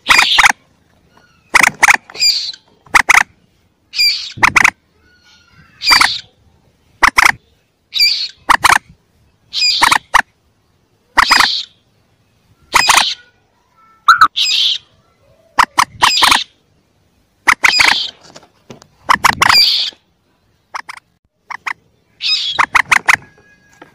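Calls of young common moorhens: short, sharp, squawking notes repeated roughly once a second, some sliding down in pitch, as used in a bird-catcher's lure recording.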